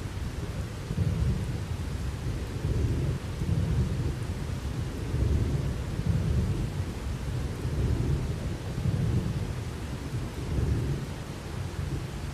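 Rolling thunder over steady rain: a deep, long rumble that swells and fades in waves for about ten seconds, with the hiss of rain throughout.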